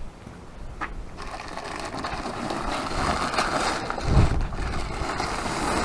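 Heavy sacks of goat feed being handled and dragged: rough rustling and scraping that builds from about a second in, with a heavy thump about four seconds in as a sack is set down.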